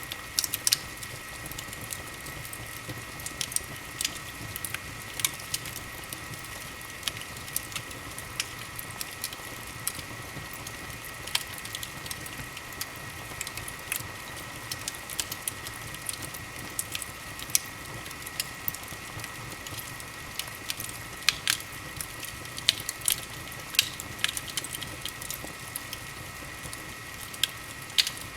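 Wood fire burning in a fireplace, crackling with sharp, irregular pops over a steady hiss.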